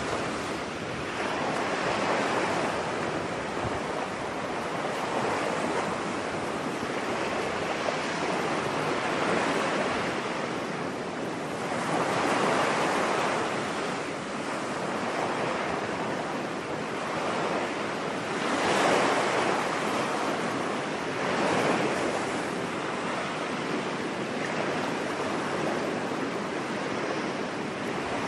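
Ocean waves breaking and washing on a shore, a steady surf wash that swells and falls every few seconds.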